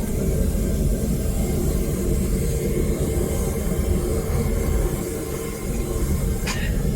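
Home-made propane burner firing into a metal-melting furnace, a steady rumbling roar of gas flame. A single sharp click sounds near the end.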